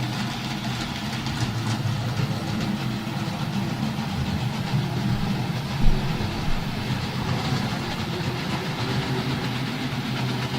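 Model railway train running on the layout, a steady mechanical hum, with two brief clicks about six seconds in.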